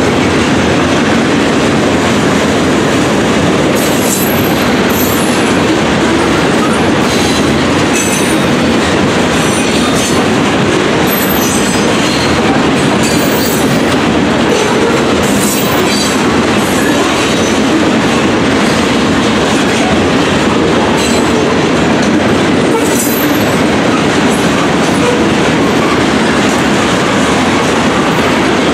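Freight train of covered hopper cars rolling past at the grade crossing: a loud, steady rumble and clatter of steel wheels on the rails, with brief high-pitched wheel squeaks several times.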